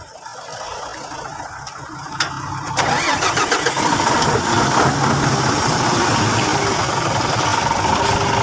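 A vehicle engine starting: a couple of clicks, then nearly three seconds in it catches with a sudden jump in loudness and keeps running steadily.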